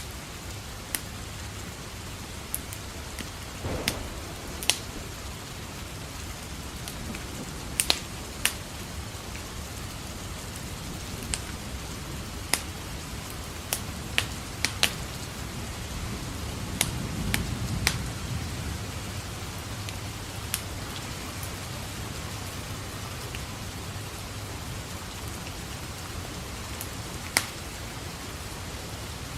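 Steady rain with the sharp pops and crackles of a wood fire in a fireplace scattered through it, and a low roll of distant thunder swelling and fading a little past the middle.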